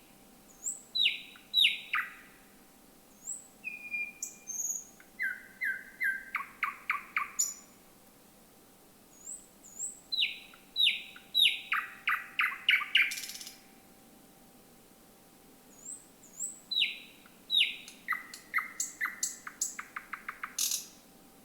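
Thrush nightingale singing: three song phrases, each opening with sharp falling whistles and ending in a fast run of dry, clicking rattle notes. A faint steady hum runs underneath.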